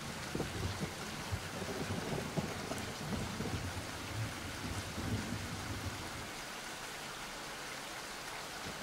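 Steady rain with low, uneven thunder rumbling through the first six seconds or so, easing off near the end.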